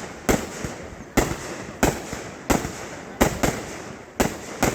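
Aerial fireworks shells bursting in quick succession, about nine sharp booms in under five seconds at uneven intervals, each trailing off briefly.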